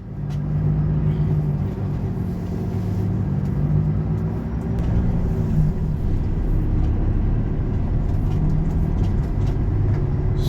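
Volvo truck driving along: a steady low engine drone with road rumble, dipping slightly in pitch about halfway through.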